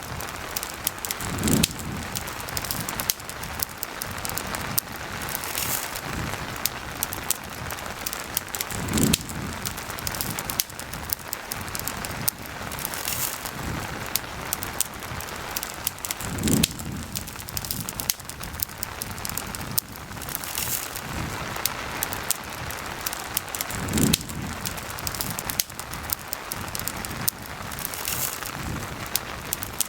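Steady rain falling, with a campfire crackling in thin, scattered snaps. A soft low thump comes back at even spacing, about every seven and a half seconds, five times, and is the loudest thing heard.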